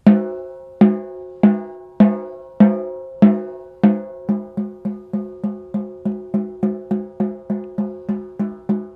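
Ludwig Acrolite aluminium-shell snare drum struck repeatedly, each hit ringing with a lingering pitched overtone. The hits come a little over half a second apart, then speed up to about three a second about four seconds in. These are test hits to check a fresh tuning adjustment, which sounds as if it may have improved the drum.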